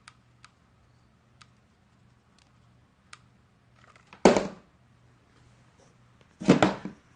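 Paper and cardboard being handled and pressed: a few faint light clicks, then two short rustling scrapes about two seconds apart.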